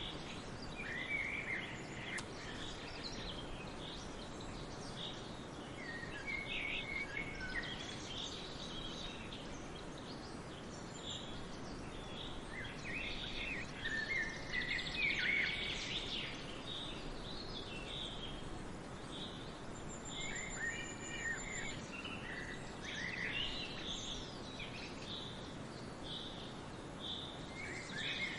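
Wild birds chirping and calling in short, scattered phrases over a steady background hiss of outdoor ambience.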